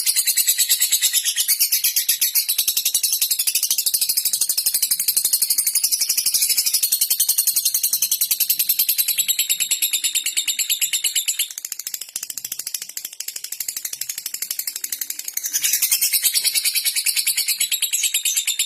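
Lovebird singing a long, rapid, high-pitched chattering trill, the continuous 'ngekek' song. It drops in level for a few seconds past the middle, then picks up again.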